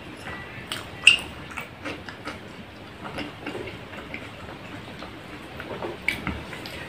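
Close-miked chewing with wet mouth clicks and smacks, including sharp clicks about a second in and again near six seconds.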